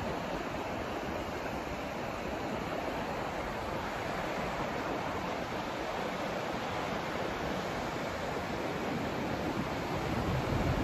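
Steady white noise from a sleep-aid noise track: an even, unbroken hiss with no tones or distinct events.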